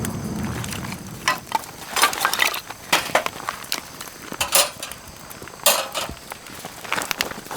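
Cookware and utensils clinking and knocking, about eight separate sharp clinks spread over several seconds. A steady rushing noise fades out about a second in.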